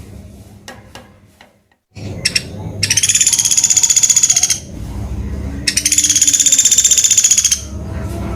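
Two rapid, high-pitched rattling trills from a pelatuk beras woodpecker, each lasting about two seconds with a short pause between them. Faint scattered clicks come before them in the first two seconds.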